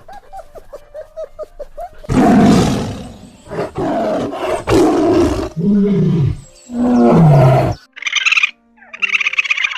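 Lion roaring: a run of four or five loud roars from about two seconds in, the last two sliding down in pitch. Short, high, rasping calls follow near the end.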